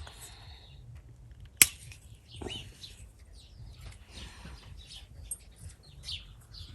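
Small birds chirping in the background, with a single sharp click about one and a half seconds in.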